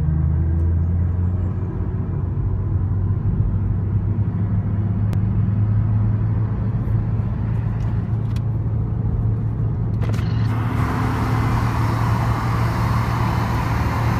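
Performance car's exhaust idling steadily with a deep, even hum; a steady hiss joins about ten seconds in.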